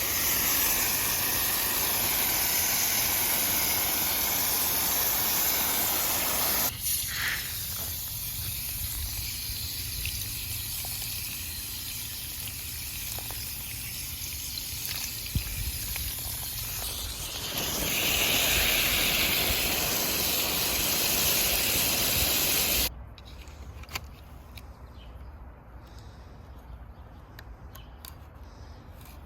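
Water spraying from a garden hose, a steady hiss that eases off about seven seconds in, comes back strong later, and cuts off suddenly about 23 seconds in, leaving a quieter outdoor background.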